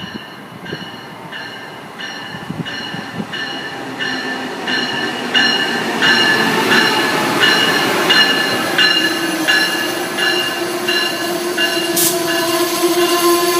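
A train approaching on the station track with its bell ringing steadily, about one and a half strokes a second. The bell and the rumble of the train grow louder over the first half, and a steady low tone joins in near the end.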